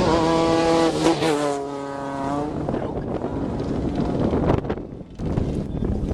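Off-road race vehicle's engine passing at speed: a high, steady engine note that drops in pitch as it goes by, then fades into a toneless rushing noise. The sound dips briefly about five seconds in.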